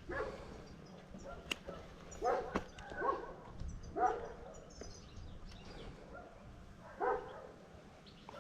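A dog barking about five times at uneven intervals, with a longer gap before the last bark near the end.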